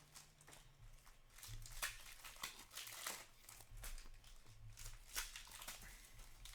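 Trading cards being handled and flipped through by hand, giving a run of short, soft crinkles and flicks as the cards slide against each other.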